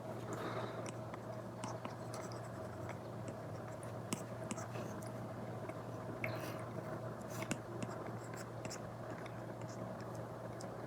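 Apple Pencil Pro tip scratching and tapping on an iPad screen covered with a paper-like matte screen protector, in short irregular drawing strokes with a few sharper taps, over a steady low hum.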